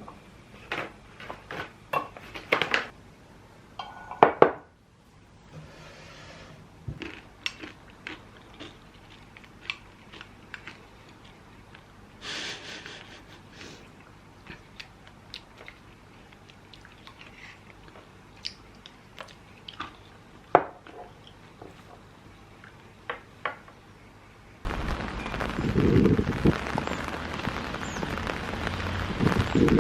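Scattered light clinks and knocks of dishes and utensils being handled. About 25 seconds in, a sudden, louder steady hiss cuts in.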